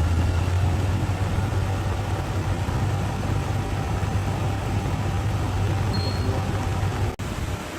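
Bulldozer's diesel engine running steadily with a deep low drone. It cuts off abruptly near the end, leaving a quieter hiss.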